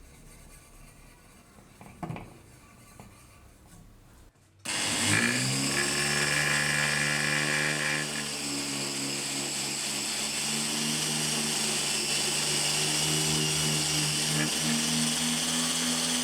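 Electric power tool switched on about a third of the way in: its motor spins up quickly, then runs at a steady pitch. Before that, only faint handling sounds and one brief knock.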